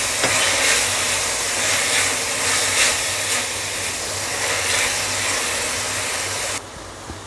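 Onion, ginger-garlic and green-chilli paste sizzling in hot oil in a kadai while a metal spatula stirs and scrapes it, as the masala is sautéed until the oil separates. The sizzle cuts off suddenly near the end.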